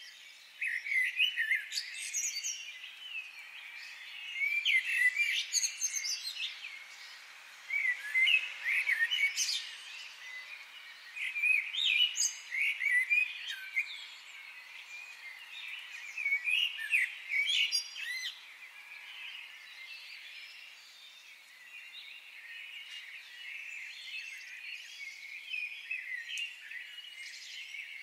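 Many small birds chirping and calling, high-pitched and in lively clusters for most of the time, settling into a softer, continuous chatter near the end.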